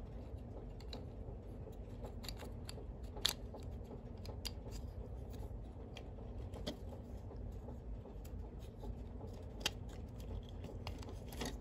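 Scattered small clicks and taps as the toy's gearbox parts are handled and fitted back together, over a steady low hum.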